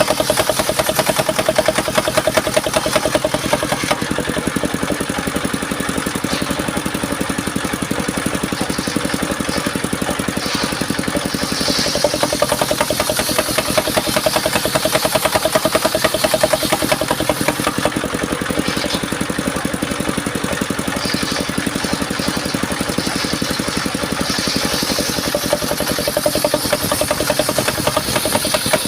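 Engine of a home-built mobile circular sawmill running steadily, with short spells of higher hissing about twelve seconds in and again near the end.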